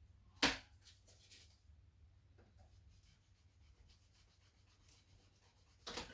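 Hands handling parts and packaging while unboxing: a sharp knock about half a second in, then faint rustling and small taps, and another short loud knock near the end.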